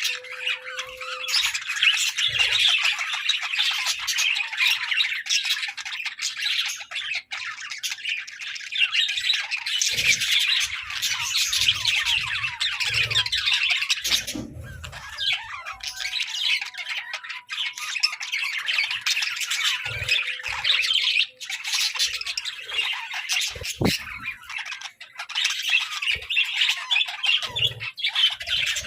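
A flock of budgerigars chattering and squawking, many birds calling at once without a break. There are a few faint low knocks among the calls.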